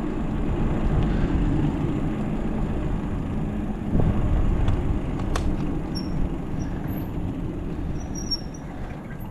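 Wind rushing over the microphone and tyre rumble from a bicycle in motion, with a sharp knock about four seconds in. The noise eases off near the end, as the bike slows.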